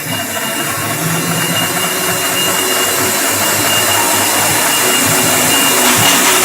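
Milling machine spindle running with a 1.9 mm drill, a steady mechanical noise with a thin high whine, slowly growing louder.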